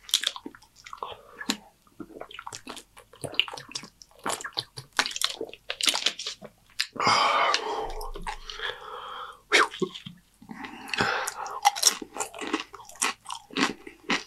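Close-miked chewing and crunching of Dorito-chip nachos, with crisp irregular crackles of the chips breaking between the teeth. A longer breathy noise comes about halfway through.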